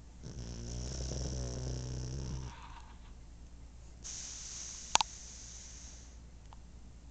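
Sleeping pug snoring: a long pitched, rattling snore lasting about two seconds, then a softer hissing breath about four seconds in. A sharp double click, the loudest sound, comes about five seconds in.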